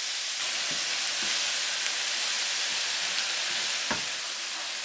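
Vegetables and sauce sizzling steadily in a hot frying pan, with one light knock near the end.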